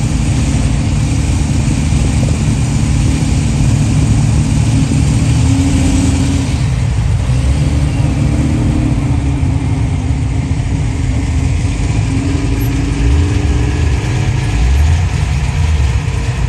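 Car engines idling and revving lightly as cars drive slowly past one after another, ending with a Ford XY Falcon GT's 351 V8.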